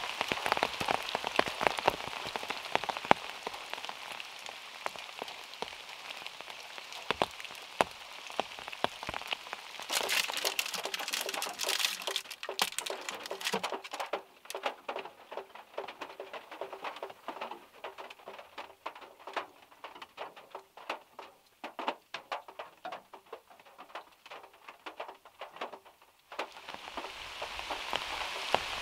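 Rain and heavy drops falling from trees, pattering and tapping on a small car's body. The patter is dense at first, thins about halfway through to scattered separate drops, then a denser steady patter returns near the end.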